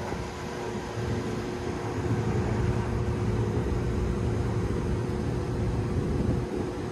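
Steady hum of running HVAC equipment, with two constant tones over a noisy rush; a low rumble swells about a second in and drops back near the end.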